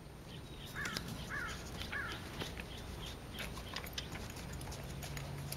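A bird calls three times in quick succession about a second in, followed by fainter, shorter calls and ticks; a low steady hum comes in near the end.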